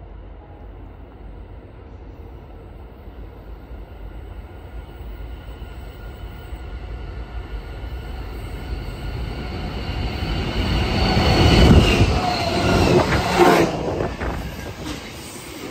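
Freight train approaching and passing: the locomotive sound builds steadily to a loud peak about twelve seconds in, with a high steady wheel squeal, then falls away as the train rolls on.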